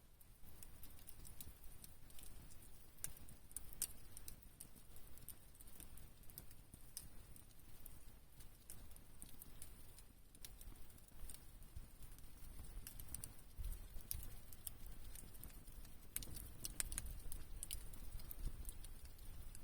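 Wood campfire crackling: scattered sharp pops and snaps, thicker toward the end, over a low rumble.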